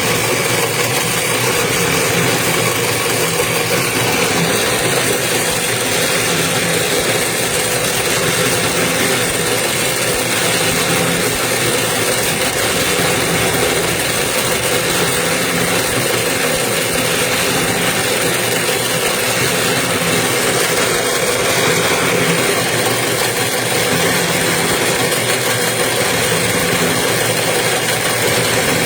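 Toroidal transformer winding machine running steadily.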